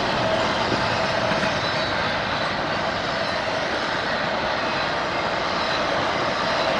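Train passing close by, a steady loud rolling noise with a few faint held tones above it.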